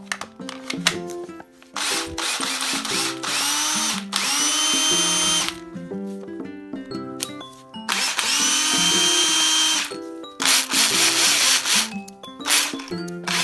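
Cordless power tool motor run with no load, twice, each time spinning up in a rising whine that levels off and holds for about two seconds before stopping, with a few shorter bursts near the end; the tool runs, so the motor works. Background music plays underneath.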